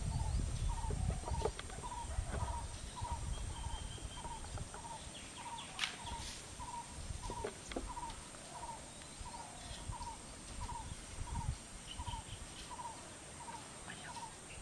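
A bird repeating one short call note evenly, a little over twice a second. Low rumbling at the start, and a few sharp snaps a little before the middle.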